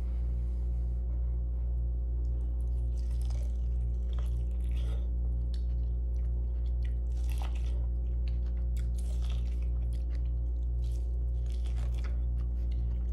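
Close-up eating of boiled corn on the cob: bites pulling kernels off the cob and chewing, heard as short irregular crunches and mouth clicks. Under them runs a steady low hum.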